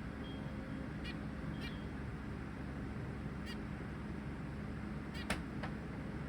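Zebra finches giving short nasal call notes, about six scattered calls with the loudest a little after five seconds in.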